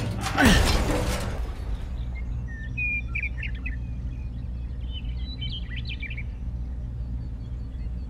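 Birds chirping in short, scattered calls over a steady low hum, after a louder noisy burst with a falling tone in the first second and a half.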